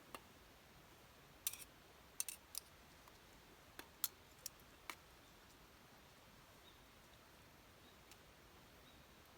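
Campfire crackling: scattered sharp pops and clicks from the burning wood, most of them in the first five seconds, over a faint steady hiss.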